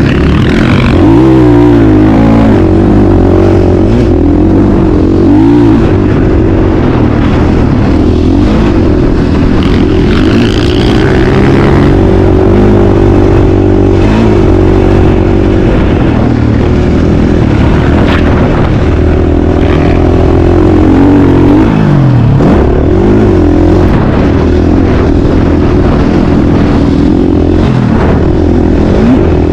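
Motocross bike engine running loud, its pitch rising and falling again and again as the throttle opens and closes. It drops low and climbs back sharply about 22 seconds in.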